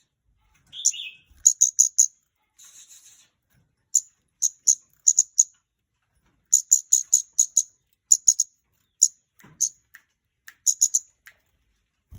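Scarlet-backed flowerpecker calling: sharp, high ticking chips in quick runs of two to six, with short pauses between the runs.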